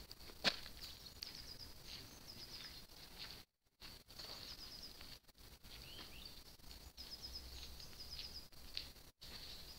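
Songbirds chirping in quick runs of short high notes over a quiet outdoor hush, with one sharp click about half a second in and a few softer clicks. The sound cuts out completely for a moment twice.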